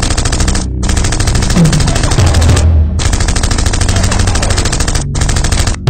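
Rapid automatic gunfire in long sustained bursts, broken by brief pauses, as a dubbed film sound effect.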